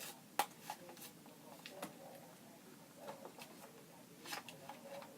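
Scattered light clicks and taps of small plastic objects being handled, a few a second at irregular intervals.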